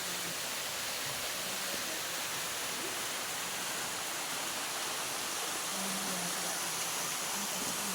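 A steady, even rushing noise with no clear events.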